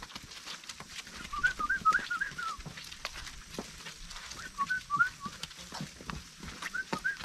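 A songbird singing three quick phrases of short, rising-and-falling whistled notes, over scattered sharp clicks and knocks.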